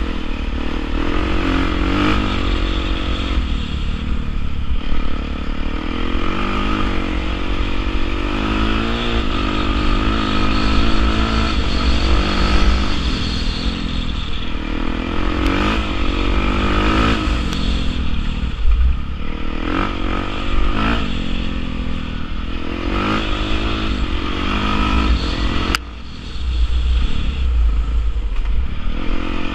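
Honda CRF450R's single-cylinder four-stroke engine revving up and down repeatedly as the dirt bike is ridden, its pitch rising and falling every second or two. The sound dips briefly near the end as the throttle is shut.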